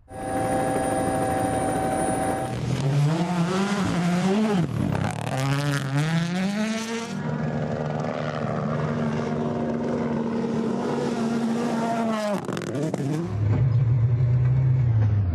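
Rally car engine driven hard on a stage. It opens with a steady whine for a couple of seconds, then the revs climb and fall repeatedly with gear changes and are held high for several seconds. The revs drop sharply about twelve seconds in, and the engine settles to a lower steady note near the end.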